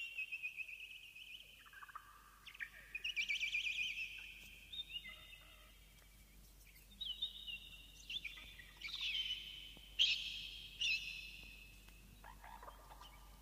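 Birds chirping and trilling in repeated high, quick phrases, louder in a few bursts near the end.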